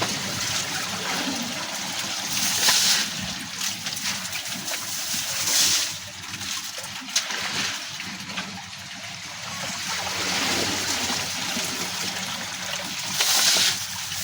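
Water splashing and trickling steadily, with three louder surges of splashing.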